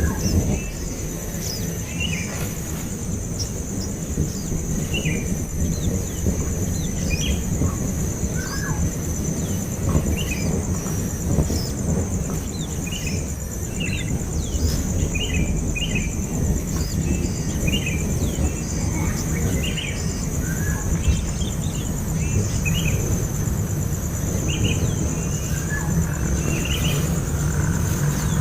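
Nestling birds giving short, scattered chirps, a few every second or two, over a steady low rumble and a thin steady high whine.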